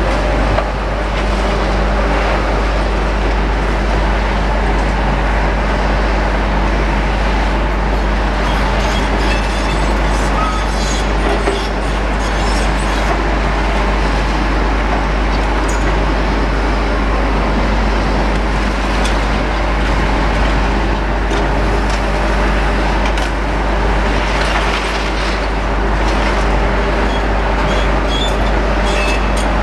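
Demolition excavators' diesel engines running steadily under load, with scattered crackles and clatter of debris throughout.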